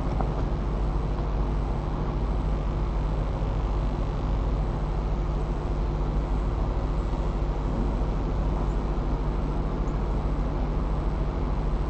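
Wind rushing through the treetop and over the nest-camera microphone: a steady low rumbling noise with a faint underlying hum.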